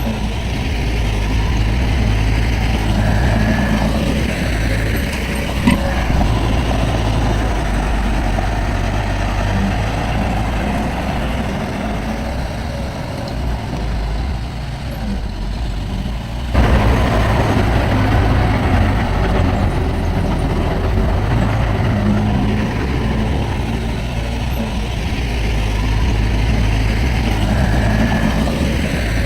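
Heavy diesel earthmoving machinery running steadily, with a couple of short knocks. A little past halfway the sound jumps abruptly louder.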